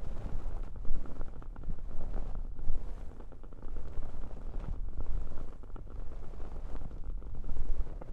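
Hands cupping, pressing and rubbing over the ears of a binaural dummy-head microphone, giving a muffled, uneven low rumble that swells and fades, with faint fine crackling from a wood-wick candle.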